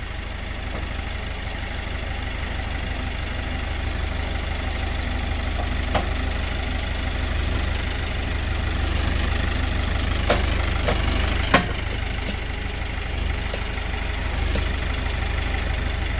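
Tractor engine running steadily at idle, with a few sharp clanks about six, ten and eleven seconds in.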